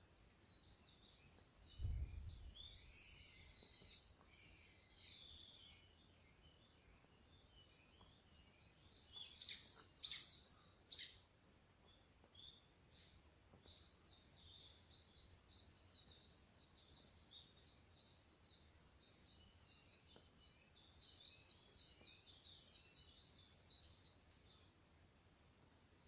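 Wild birds singing: several varied phrases early on, a few sharp falling notes about ten seconds in, then a long rapid chattering run of repeated notes. A single low thud comes about two seconds in.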